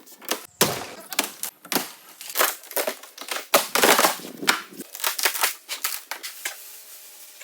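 A rapid, irregular clatter of sharp knocks and clicks, like hard objects being handled and knocked together, with no steady rhythm; it cuts off suddenly at the end.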